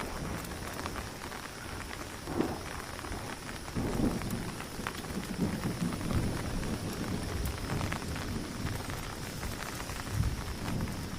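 Heavy rain falling steadily, with a low rumbling underneath and a couple of short dull knocks in the first few seconds.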